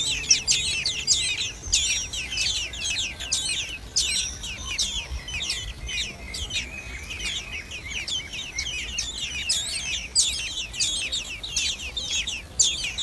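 A crowd of nestling birds calling in a continuous stream of quick, high-pitched, downward-sliding chirps.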